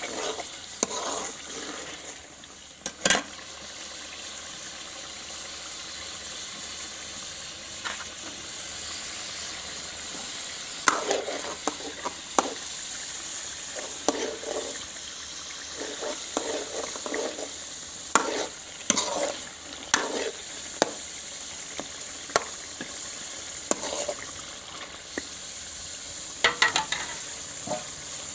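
Chicken masala sizzling in a metal pot, a steady high hiss, while a metal ladle stirs it, scraping and knocking against the pot's sides in irregular strokes.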